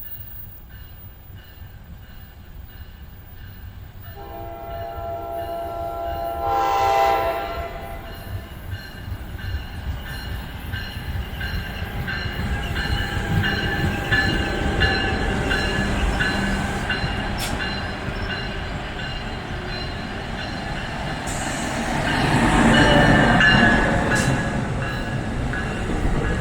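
An NJ Transit train sounds a multi-note horn chord for about three seconds, a few seconds in. It then comes on with a rumble and rail noise that build up and are loudest near the end as it passes close by.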